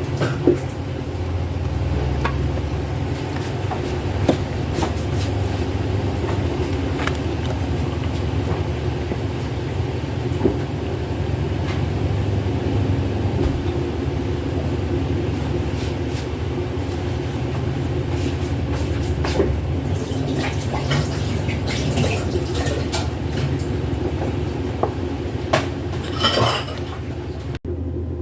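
A steady low hum with scattered light clicks and clinks, which come more thickly in the last several seconds.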